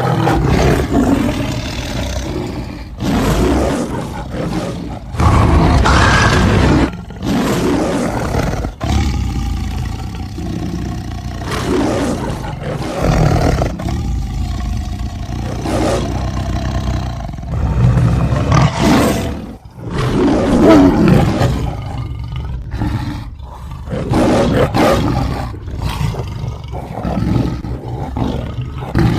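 Big-cat roars and growls, one call after another with short breaks between, mixed from lion, tiger and leopard recordings as the voice of a made-up beast.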